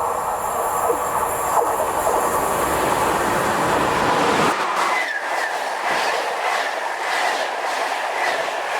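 A train passing close by on the main line: a steady rolling rumble that thins out about halfway through. After that come rapid clicks of the wheels over the rail joints and a thin squealing tone from the wheels.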